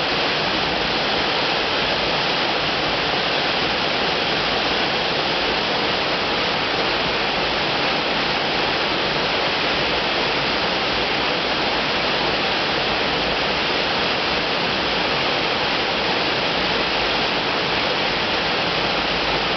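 Nejire Falls, a mountain waterfall, pouring steadily: an even, unbroken rush of falling water.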